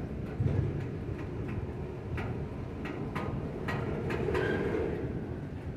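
Double-stack intermodal well cars rolling slowly past with a steady low rumble of wheels on rail. A series of sharp clicks and short squeaks comes from the running gear about two to four and a half seconds in.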